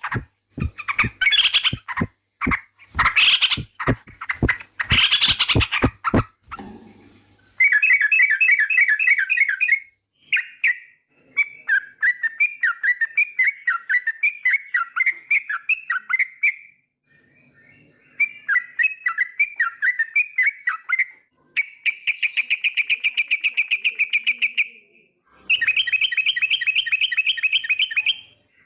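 Yellow-vented bulbul calling: about six seconds of harsh, rapid chattering calls, then a run of fast, bubbling trilled song phrases, each a few seconds long, with short pauses between them.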